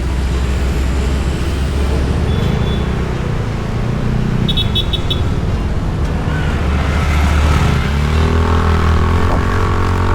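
Motorbike riding in city traffic: a steady low engine and road hum, with a short run of high beeps about four and a half seconds in and an engine note climbing in pitch near the end as the bike or a nearby vehicle speeds up.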